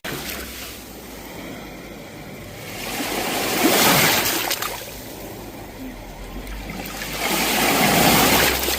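Sea waves washing onto the shore: a rushing surge that builds and recedes twice, peaking about four seconds in and again near the end.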